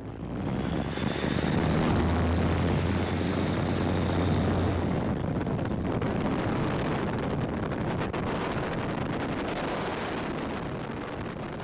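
Light aircraft engine and propeller running amid heavy rushing air. A strong low drone dominates for about the first five seconds and then drops away, leaving steady air noise that slowly fades.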